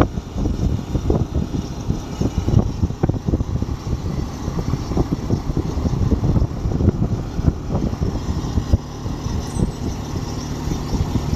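Continuous low rumble of a vehicle in motion, with frequent irregular knocks and bumps.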